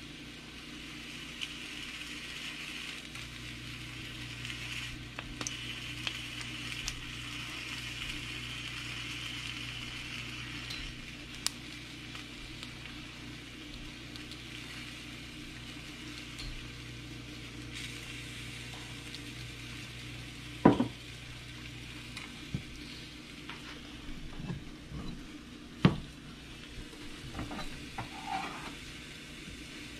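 Steady sizzling of chicken breasts on a stovetop grill pan and oil heating in a frying pan. A few knocks of cookware come in the second half, two of them sharp and loud.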